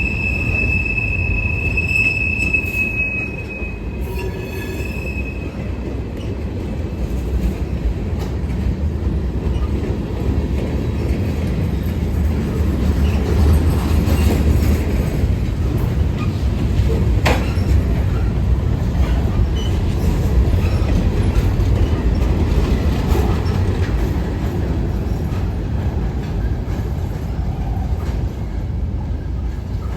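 Railroad cars rolling past with a steady low rumble. A high-pitched wheel squeal with overtones sounds in the first few seconds and then fades out, and a single sharp clank comes about halfway through.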